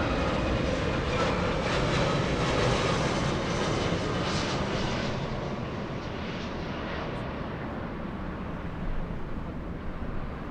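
Boeing 757-300 jet airliner's engines going past, a loud rush with a faint high whine that dies away as the aircraft moves off from about halfway.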